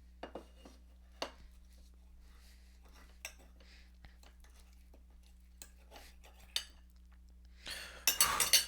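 Scattered light clicks and taps of a plate and utensils being handled with a hot microwave burrito, then a louder rustling burst near the end.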